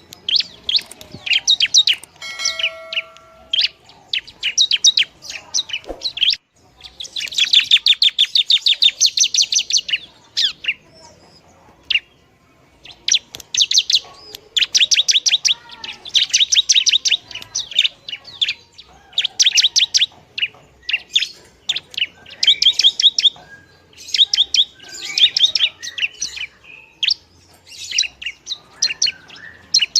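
Long-tailed shrike (pentet) song: harsh, rapid chattering bursts of quick high notes, each lasting a second or two, repeated with short pauses.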